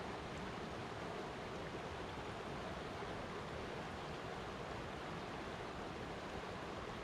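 Flowing water running steadily, an even unbroken rush of noise.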